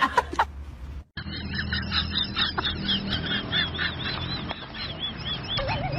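A run of short, high-pitched calls, each rising and falling, repeating two to three times a second from an animal or bird, then lower-pitched calls of the same shape near the end.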